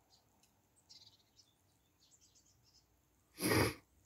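Small garden birds chirping faintly, a scatter of short high calls. About three and a half seconds in comes one short, loud burst of noise close to the microphone.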